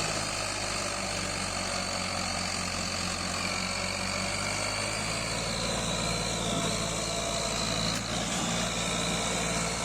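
Ford 3610 tractor's three-cylinder diesel engine running steadily under heavy load as it strains to pull an overloaded trailer, with a thin high whine over the engine note.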